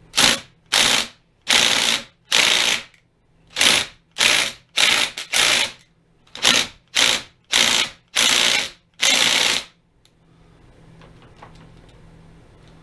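Electric impact wrench hammering in about a dozen short trigger bursts, trying to break a stuck screw loose in the lathe's cross feed, then falling silent about ten seconds in.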